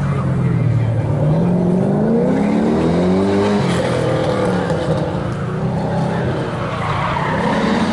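Chevrolet Corvette Sting Ray's V8 accelerating hard through an autocross cone course: the engine note climbs in pitch, drops suddenly about three and a half seconds in, then climbs again near the end.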